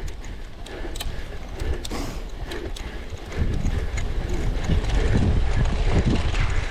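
Bicycle clicking and rattling, with a sharp tick about twice a second. About three and a half seconds in, a louder rough rumble of tyres over uneven ground and wind on the microphone takes over.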